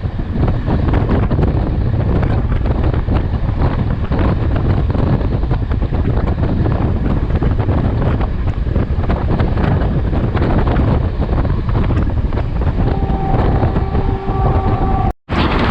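Class S13 diesel multiple unit running at speed, heavy wind buffeting the microphone over a steady low rumble. For the last couple of seconds a faint steady tone of several pitches sounds, then the audio cuts out abruptly.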